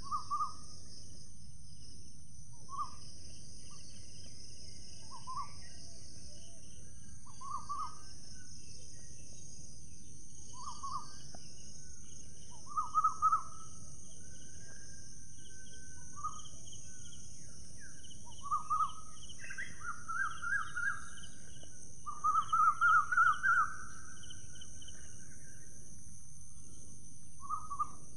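A bird calling in short notes every two to three seconds, with a quicker run of notes about 22 seconds in, over a steady high hiss and a low rumble.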